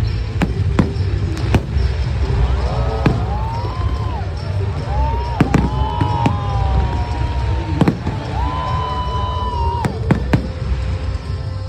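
Fireworks display: sharp bangs going off irregularly, a dozen or so, over a steady low rumble.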